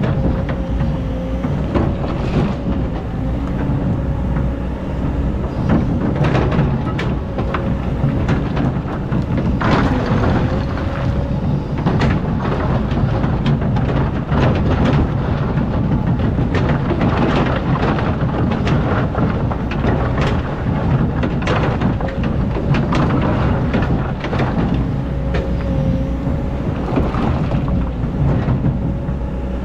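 Hydraulic excavator working: its diesel engine runs steadily under load, with a wavering whine that comes and goes, while the bucket scrapes and knocks repeatedly against hard, compacted sand.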